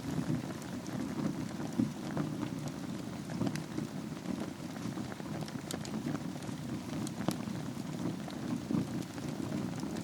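Wood fire burning in a fireplace over glowing embers: a steady low rush of flame with scattered sharp crackles and pops throughout.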